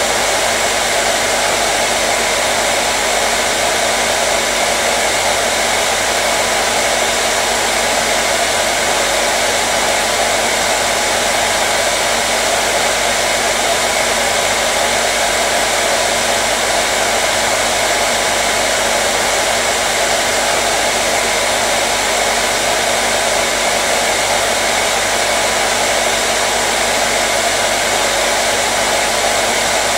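Hair dryer blowing steadily, an even rushing noise with a faint low motor hum underneath.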